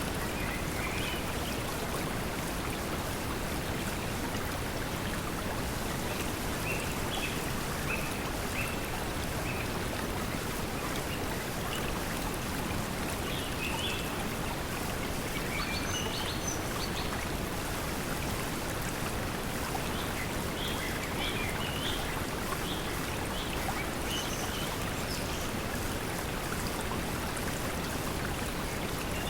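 Steady pink noise mixed with the sound of a flowing stream, with short bird chirps scattered through.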